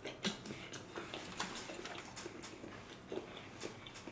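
A person chewing sushi close to the microphone: scattered short, soft mouth clicks.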